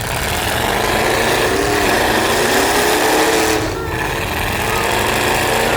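Truck engines running hard and revving up and down in a demolition derby, with a short dip in the noise a little after halfway.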